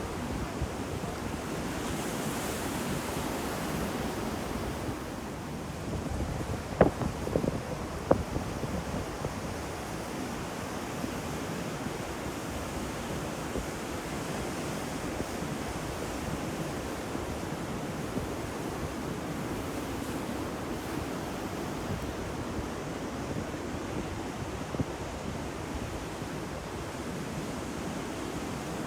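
Ocean waves washing and breaking on a shore, a steady surf rush, with wind on the microphone. A few sharp clicks come close together about seven seconds in.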